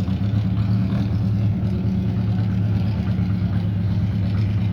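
Vintage Indy-style race car engine running steadily at a constant low pitch, not revving.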